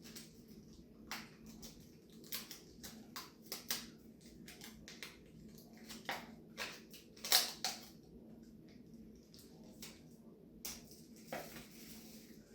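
Hands handling tape and paper on a craft tube: irregular crinkling and rustling with scattered small clicks, the loudest crackle a little past seven seconds in.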